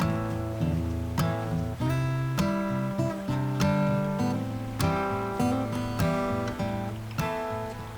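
Background music: acoustic guitar strummed and picked in a steady rhythm, with chords changing every second or so.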